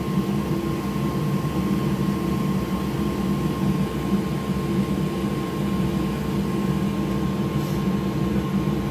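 Steady, even whir of an electric blower motor with a faint constant high tone over it; it does not rise, fall or stop.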